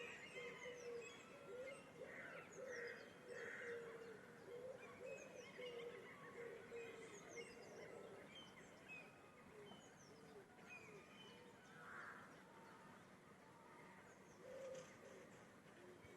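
Several birds singing and chirping, many short high calls overlapping, with a lower warbling call running under them for the first half and returning briefly near the end; faint.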